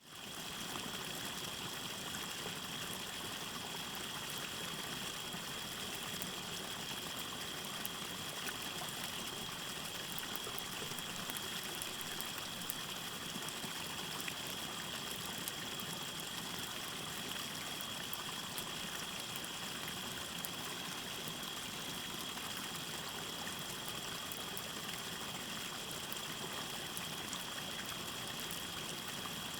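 Steady trickle of a small stream and gentle waterfall, with a continuous high cricket trill and faint scattered crackles from a campfire. The sound fades in over the first second.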